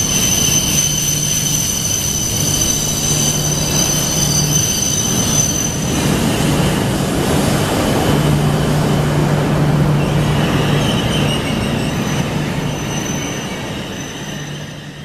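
Coupled E5 and E6 series Shinkansen train running past: a broad rolling rush with a steady high whine, the whine stopping about six seconds in and the sound fading away near the end.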